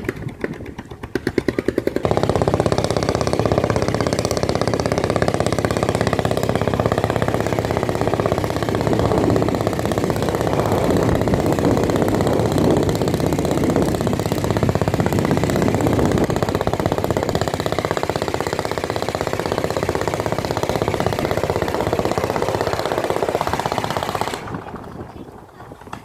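A boat engine putting along with distinct rapid firing pulses, then opened up about two seconds in and running hard and steady for about twenty seconds before dropping back near the end.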